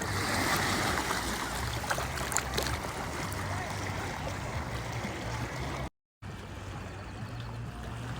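Steady lakeside wash of water and wind, with a few faint clicks in the first two seconds and a brief total break in the sound about six seconds in.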